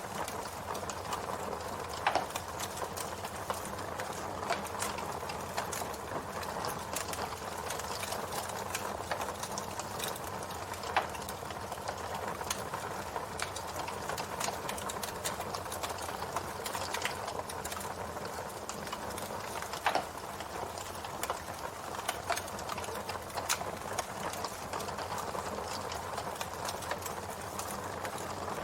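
Campfire burning with dense, steady crackling over a soft rushing noise, punctuated by a few sharper pops spread through it.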